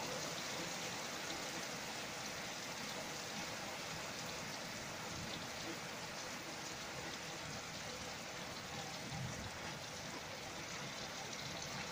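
Steady rain from a night thunderstorm, an even, unbroken hiss.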